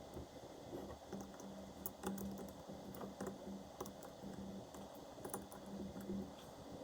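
Light, irregular clicking and tapping, with a low hum that comes and goes.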